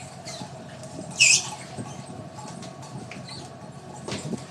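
Steady machinery hum of a squid-jigging ship with scattered light clicks, and one short high squeak about a second in.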